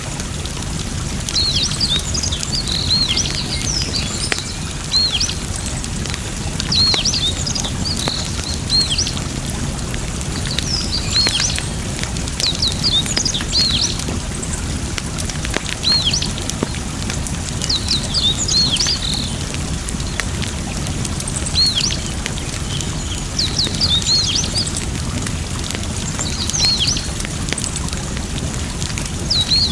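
Steady flowing water with an open fire crackling in scattered sharp pops, while small birds chirp repeatedly throughout in short, high, quick calls.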